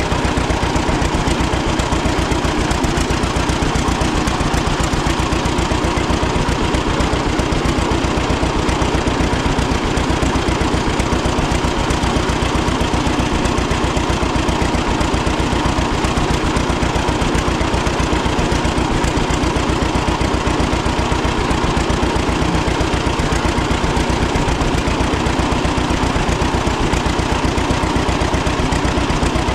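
1936 John Deere Model A's two-cylinder engine running steadily at an even, unchanging beat.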